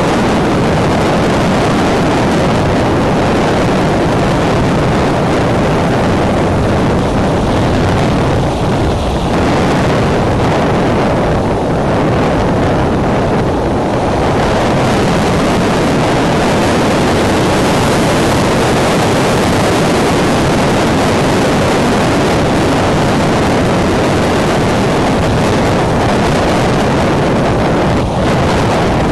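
Strong wind blasting across the eagle-nest camera's microphone: a loud, steady rush of noise that eases only slightly now and then.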